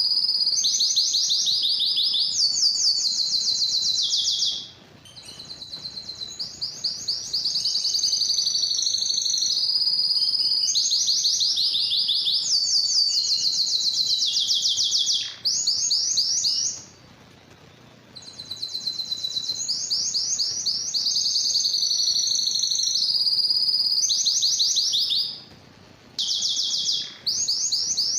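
A domestic canary singing: long, high-pitched phrases, each a rapid run of the same note repeated many times before switching to a new trill. The song breaks off briefly a few times.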